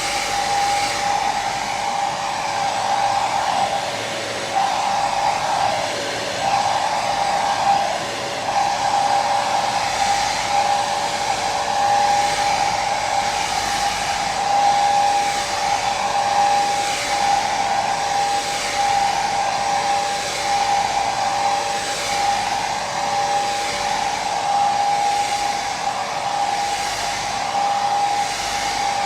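Hair dryer running steadily: a continuous rush of air with a high motor whine.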